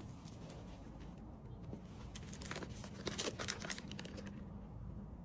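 Faint rustling and crinkling of packaging being handled, with a few light clicks and taps as small items are moved.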